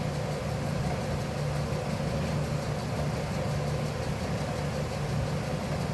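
Steady low mechanical hum of a machine running, unchanging throughout.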